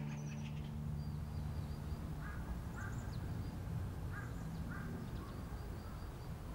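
Outdoor birds calling: four short calls in two pairs with faint high chirps, over a steady low background. A held music tone fades out over the first two seconds.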